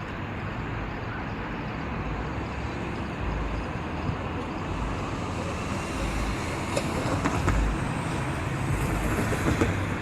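Steady low vehicle rumble with no clear rhythm, growing a little louder in the second half.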